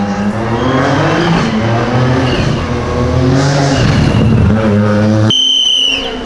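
Rally car engine at full throttle on a special stage, revving up and dropping back repeatedly through gear changes. About five seconds in the engine sound cuts off and is replaced by a thin, steady high-pitched whine.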